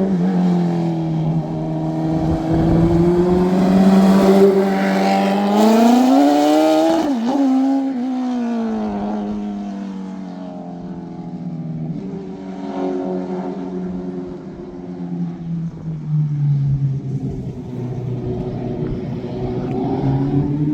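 Twin Suzuki Hayabusa-engined mini truck running under throttle. Its engine note climbs in pitch, drops sharply about seven seconds in, and fades away. It grows louder and higher again near the end.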